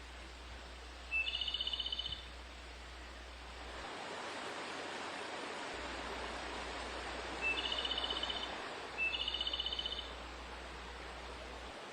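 A bird gives the same short call three times: a brief lead-in note and then a fast, buzzy pulsed trill lasting about a second. The first call comes about a second in, and the other two come close together near the end. A steady rustling haze sits behind the calls and grows louder from about four seconds in.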